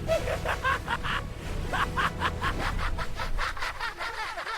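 Cartoon characters giggling in a quick run of short, high-pitched laughs, over a steady low rumble.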